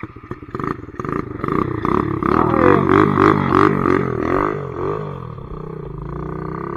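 Pit bike engine running and being revved: the pitch climbs, swings up and down several times, then settles into a steadier run near the end.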